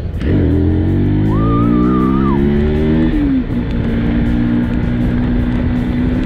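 Motorcycle engine accelerating, its pitch climbing steadily for about three seconds, then dropping suddenly at an upshift and settling into a steady cruise.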